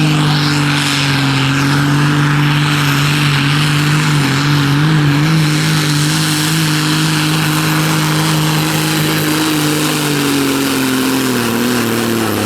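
Competition pulling tractor's engine running hard at high revs under load, holding a steady pitch with small wobbles, then dropping in pitch near the end as the revs fall.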